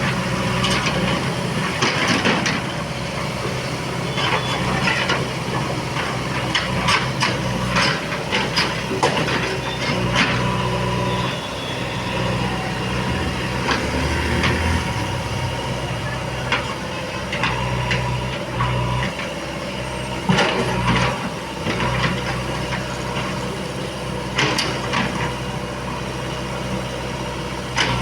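Heavy diesel engines of a JCB backhoe loader and tipper truck running steadily, with frequent sharp knocks and clanks from the digging work.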